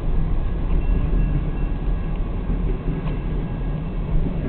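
BNSF freight train passing through a road crossing, a steady low rumble heard from inside a stopped car.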